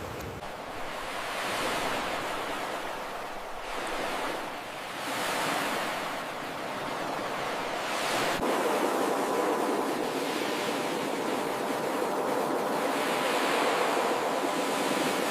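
Ocean surf washing onto a beach in repeated swells that rise and fall every couple of seconds. A little past halfway the sound changes abruptly to a steadier, denser wash.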